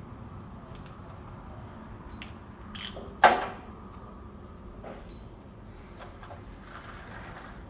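Tool and part handling during a scooter oil change: a few faint clicks, and one sharp knock about three seconds in that rings briefly as it dies away.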